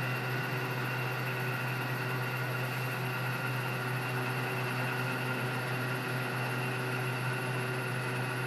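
A steady, unchanging machine hum, engine-like, with a strong low drone and a few steady higher tones.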